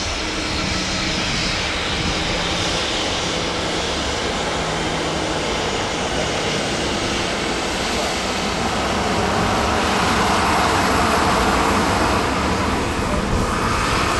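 Jet engines of a Boeing 787-9 airliner landing, a steady broad roar that grows louder about ten seconds in.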